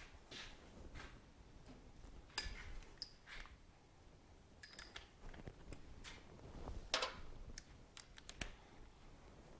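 Faint, irregular clicks and light metallic clinks of hand tools and metal parts being handled while a Suzuki TC125 motorcycle is taken apart. A few of the taps ring briefly.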